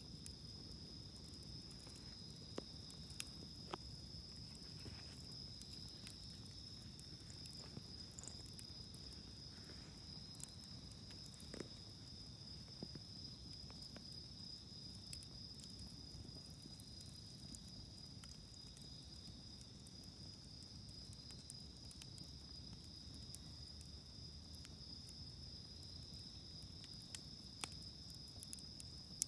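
Faint wood fire crackling with scattered small pops, a few sharper ones about three seconds in and near the end, under a steady high-pitched insect chorus.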